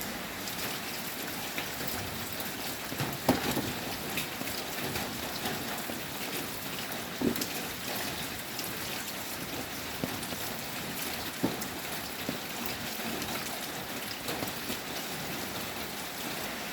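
Steady rain falling, with a few louder drops striking close by, the strongest about three seconds in.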